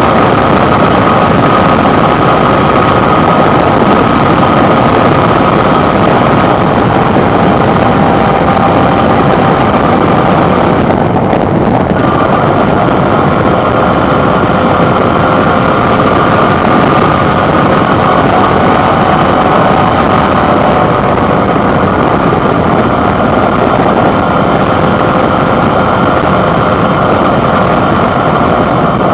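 Suzuki V-Strom 650's 645 cc V-twin engine running steadily, picked up from the handlebar along with road and wind noise. About eleven seconds in the note briefly drops away, then settles back slightly higher.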